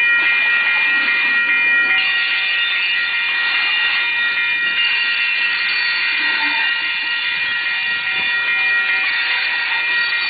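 Freight train of tank cars rolling past, with a steady high-pitched squeal from the cars' wheels held over a continuous hiss.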